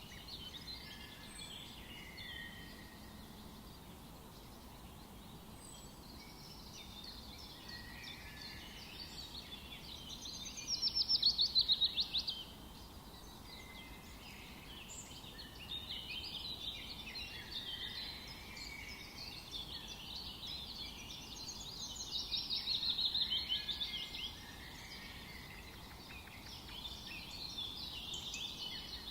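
Several birds singing at once in a forest, a busy mix of chirps and warbling phrases over a faint steady hiss. Two louder, rapid trilled phrases stand out, about ten seconds in and again a little past twenty seconds.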